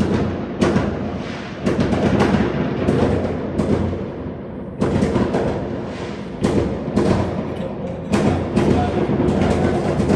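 Fireworks going off: a fast, irregular series of sharp bangs, sometimes several in a second, each followed by a low rumbling echo.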